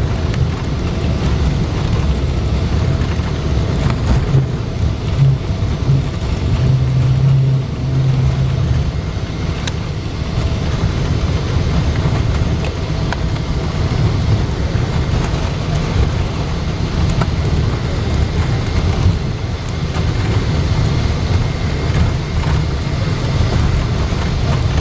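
Cabin noise inside a Boeing 777-200: a steady low rumble of the jet engines and airflow, with a faint hum on top.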